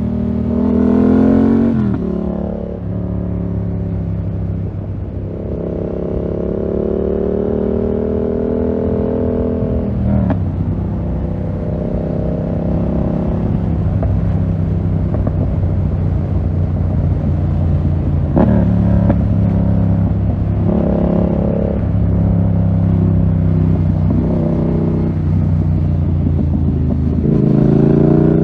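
2020 Yamaha MT-07 parallel-twin engine through a full SC-Project 2-1 exhaust, accelerating with rising revs that fall off sharply at throttle lifts or gear shifts about 2, 10 and 18 seconds in, then climbing again near the end.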